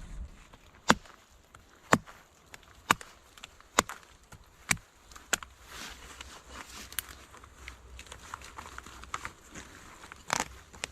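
Hand-tool blows on wood: five sharp strikes about a second apart, then lighter scattered knocks and one more hard strike near the end.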